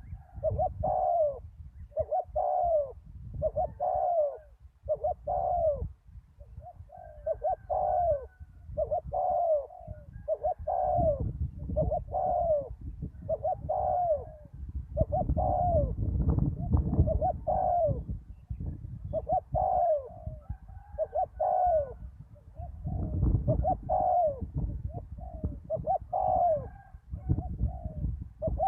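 Spotted doves cooing over and over, a steady string of short falling coo phrases about one a second, over a fluctuating low rumble.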